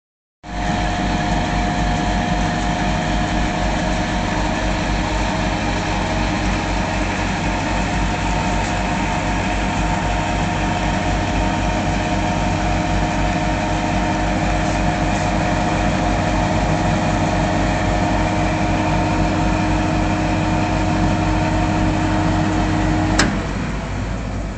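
Industrial 60-kilo washing machine running, a steady motor hum and whine over an even low churning pulse. Near the end a sharp click, and the hum cuts out, leaving a quieter rumble.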